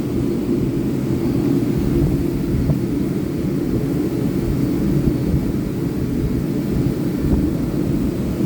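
Electric power sander running steadily against a wooden top, a low, even rumble.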